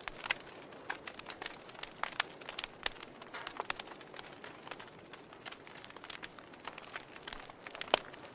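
Wood fire crackling in a fireplace: irregular sharp pops and snaps over a soft hiss, with one louder pop near the end.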